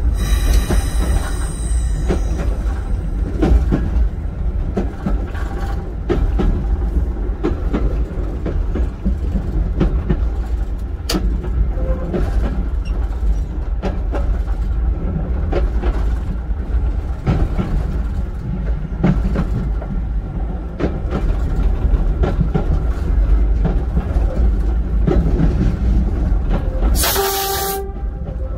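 Train running along the track, heard from the driving cab: a steady low rumble with scattered clicks from the wheels and rail joints. A short horn blast sounds near the end.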